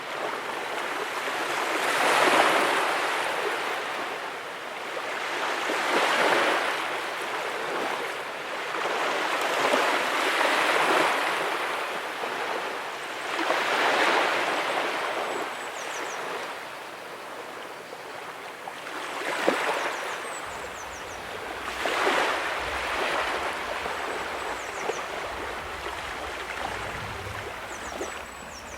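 Ocean waves breaking and washing onto the beach, each swelling and fading about every four seconds.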